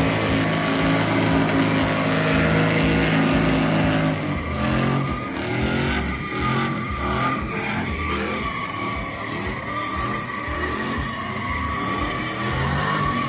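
Truck engine held at high revs in a burnout, its tires spinning and squealing. About four seconds in, the revs start rising and falling, and a steady squeal tone comes through.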